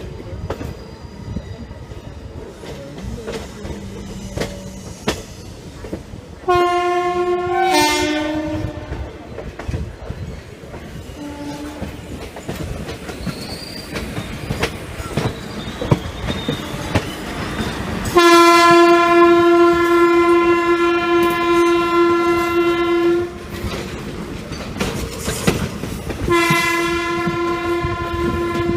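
Passenger train running, heard from on board, with steady wheel clatter over the rail joints. Several locomotive horn blasts sound over it: one about six seconds in that drops in pitch a second and a half later, a short lower one around eleven seconds, a long steady blast of about five seconds in the middle, and another near the end.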